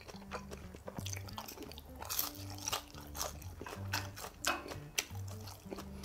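Close-up chewing and crunching of crispy fried dumplings, with many sharp crackles, over background music with a steady low bass pulse.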